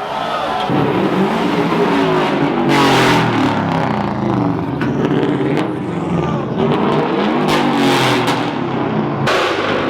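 Car engine revving hard over and over, its pitch climbing and dropping, during a burnout, with bursts of hissing noise laid over it.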